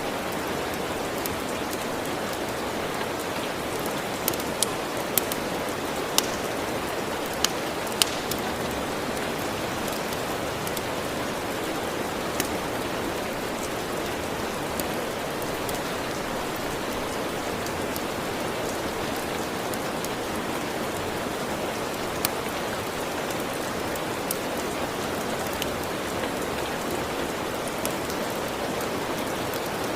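Steady rain, with occasional sharp crackles and pops from a wood fire, a cluster of them in the first several seconds and a few scattered later.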